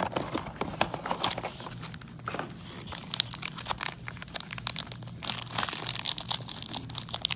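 Plastic trading-card packaging crinkling and tearing as it is opened by hand: a dense, irregular crackle throughout, over a faint steady low hum.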